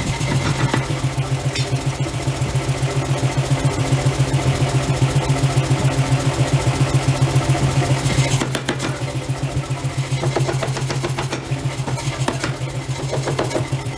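Heavy forging machinery running with a steady low hum and a fast, even pulse of several beats a second; the sound shifts about eight and a half seconds in.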